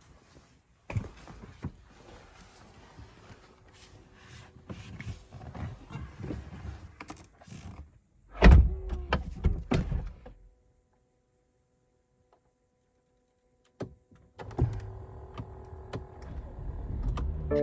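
Clicks, rustles and a thunk in and around a 2017 BMW 640i Gran Coupé. About eight and a half seconds in comes a loud burst as its engine cranks and fires on a cold start, cut off after about two seconds. Music comes in near the end.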